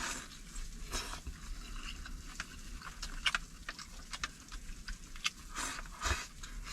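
A person eating at close range: chewing, with light, irregular clicks and taps scattered through.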